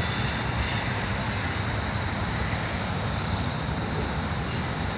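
Long train of loaded ballast hopper cars rolling along the track: a steady, even rail noise.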